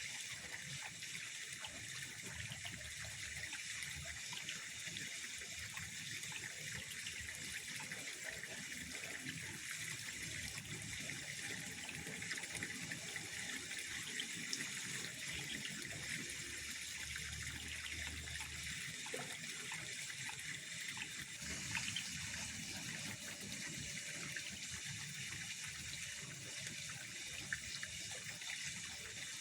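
Steady night-time pond ambience: an even, unbroken high hiss with a few faint clicks scattered through it.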